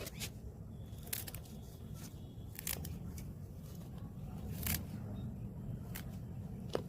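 Scissors snipping portulaca stems: about half a dozen short, sharp clicks, irregularly spaced, over a steady low hum.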